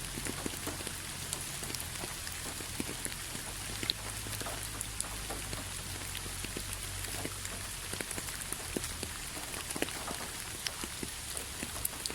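Steady rain falling, an even hiss with many separate drops landing close by as scattered light taps.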